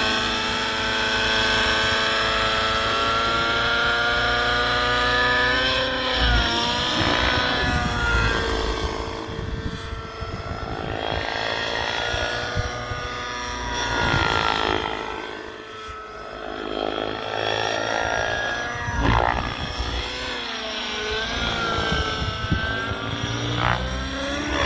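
The nitro RC helicopter, a Miniature Aircraft Whiplash 730, is flying. Its O.S. 105 HZR two-stroke glow engine with a tuned pipe and its rotors give a buzzing note that rises and falls in pitch and loudness as it manoeuvres and passes by.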